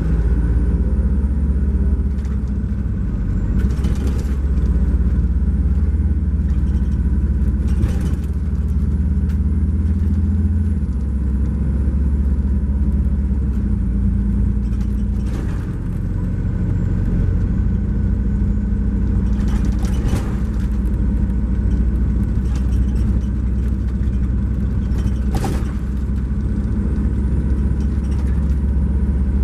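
Cummins ISX12 diesel engine of an MCI J4500 coach running under way, heard from inside the coach, its low drone stepping in pitch several times. A handful of sharp knocks or rattles from the coach body sound at intervals.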